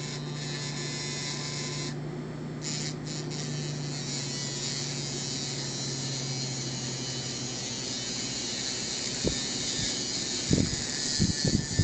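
A small electric motor running steadily with a low hum and a high hiss while the silicone tubing sleeve on the tape drive capstan is trimmed; the hum fades out about two-thirds of the way through, and a few short knocks follow near the end.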